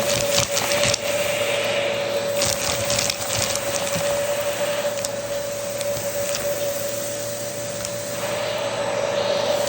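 Vacuum cleaner running with a steady motor whine under a rush of air, with a scatter of sharp clicks and crackles of debris being sucked up that are densest in the first three seconds or so.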